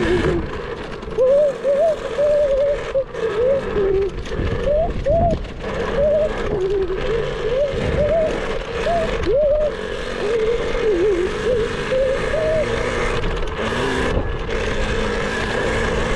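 Electric motor of a child's battery-powered KTM dirt bike whining, its pitch rising and falling as the throttle is worked, over a rushing hiss.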